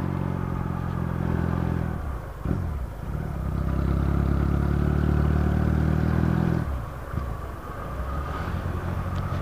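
Motorcycle engine running while being ridden, with the throttle eased off about two seconds in, pulling steadily again, then easing off once more near seven seconds.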